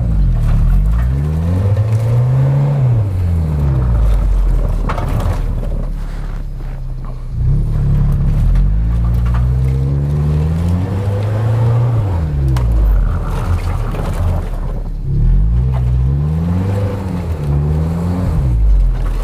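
Suzuki Escudo's engine revving up and falling back again and again, three long surges, as it labours up a steep snowy climb.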